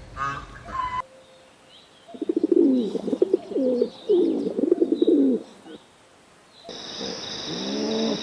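Pigeons cooing in repeated low, wavering phrases over about three seconds, with small birds chirping faintly. Near the end a steady high insect trill sets in, and an animal call rises over it.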